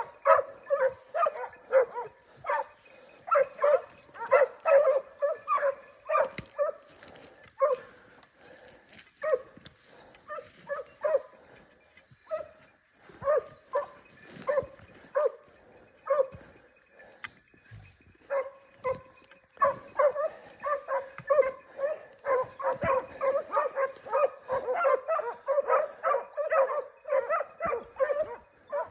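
Segugio Italiano scent hound baying on a hare hunt: rapid, repeated high yelps, giving tongue on the hare's trail. The cry comes thick and fast at first, thins out to scattered yelps through the middle, then picks up again to a steady run of yelps near the end.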